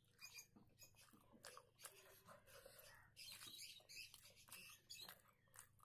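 Faint close-up chewing of soft rice with wet mouth clicks, and fingers mixing rice on a plate.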